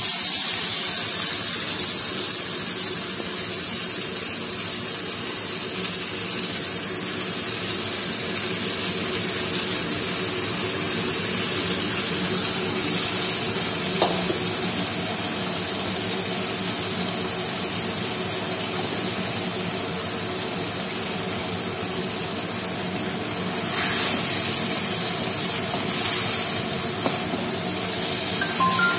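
Marinated crab pieces frying in hot oil in a kadai, a steady sizzling hiss. A single click about halfway through, and the sizzle surges briefly louder twice near the end.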